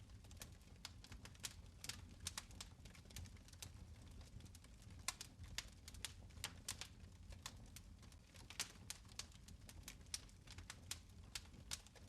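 Fireplace fire crackling: faint, irregular small pops and snaps, several a second, over a low steady rumble.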